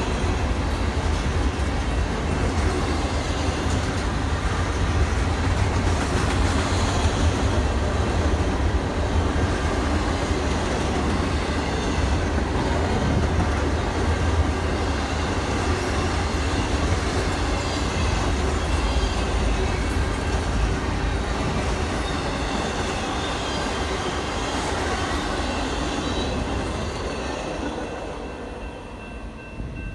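A train running along the tracks through the station: a loud, steady rumble of wheels on rails that fades over the last two seconds.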